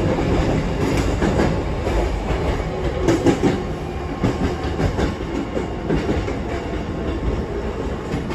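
Hankyu electric train running over the rails, heard from inside the front car: a steady rumble of wheels on track, with a few sharp clicks as the wheels pass rail joints and points.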